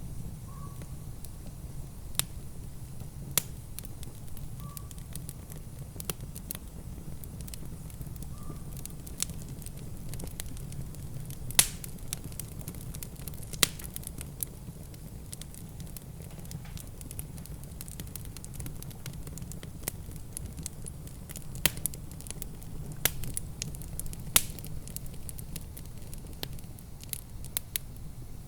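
Wood fire in a fireplace crackling, with sharp pops at irregular intervals, a few louder ones among them, over a steady low rumble.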